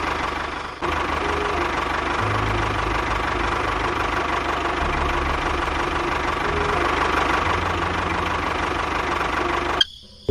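Tractor engine running, its pitch shifting up and down as it works; the sound cuts off abruptly near the end.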